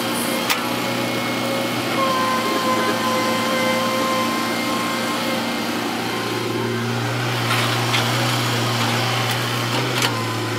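Heavy earthmoving machinery's diesel engine running steadily. A whine sits over it for a few seconds from about two seconds in, and there are a couple of brief sharp knocks.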